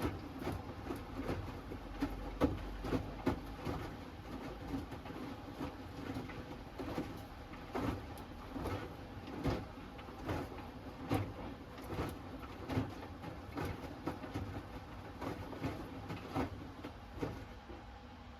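Hoover Axi 10 kg front-loading washing machine in its wash phase, the drum tumbling wet laundry with a sloshing thud about once a second. The tumbling stops near the end as the drum pauses.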